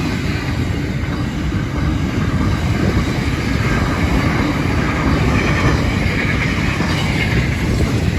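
Intermodal freight train's wagons rolling past at line speed: a loud, steady rumble of steel wheels on the rails.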